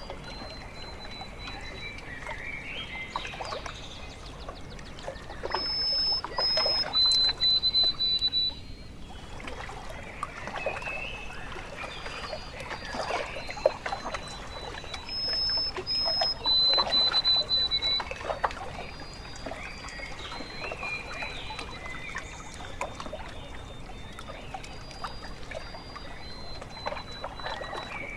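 Gentle water lapping and trickling against a shore, with birds singing clear high whistled notes over it; one loud song phrase comes twice, about ten seconds apart.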